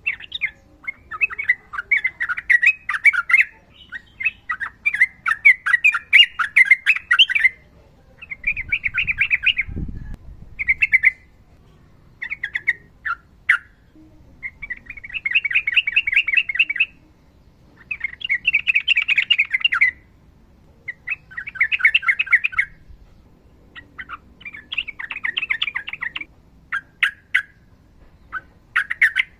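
Yellow-vented bulbul (trucukan) singing its long rolling chattering song in repeated bursts of rapid notes, each one to three seconds long, with short pauses between them.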